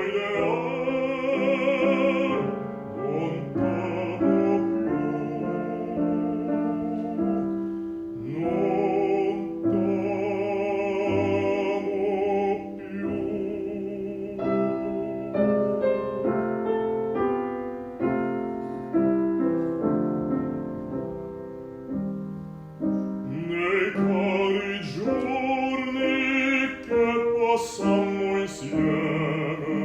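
A bass singing a classical art song in operatic style with piano accompaniment; in the middle the voice rests and the piano plays alone for several seconds before the singing comes back.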